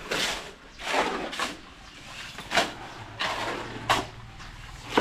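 Irregular scraping and crunching on gravel ballast, about six short gritty bursts at uneven intervals.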